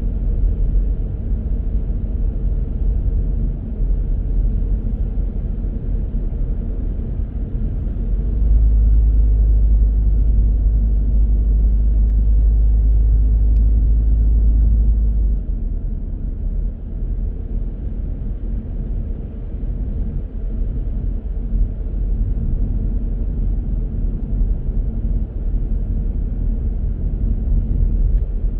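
Steady low rumble of a car being driven, the road and engine noise picked up by a dashcam inside the car. It grows louder about a third of the way in and drops back about halfway through.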